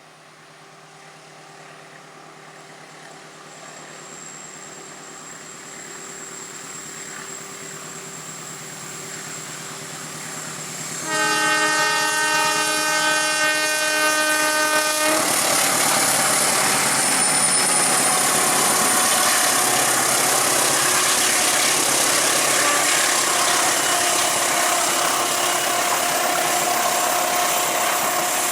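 A locomotive-hauled train approaches, growing steadily louder for about ten seconds. About eleven seconds in, the locomotive sounds its horn: a chord of several tones held for about four seconds. The train then passes close by with a loud, steady rumble and wheel noise.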